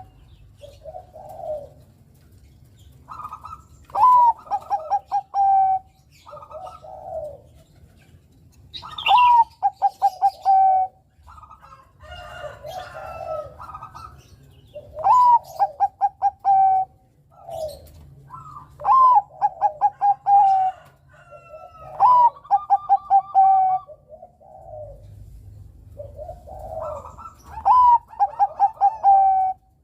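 Zebra dove (perkutut, Bangkok type) cooing: repeated phrases, each a short rising note followed by a quick run of clipped coos, every few seconds, with softer low coos in between.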